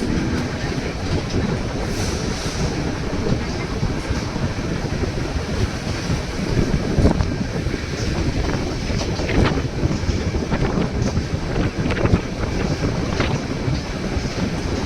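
White Pass & Yukon Route narrow-gauge passenger train rolling along the track: a steady rumble of the cars with a few sharp knocks of the wheels, and wind buffeting the microphone.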